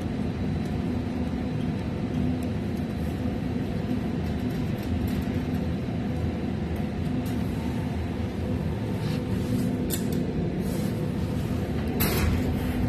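Steady hum and fan noise of a running precision air-conditioning cabinet, with a couple of short clattering noises near the end.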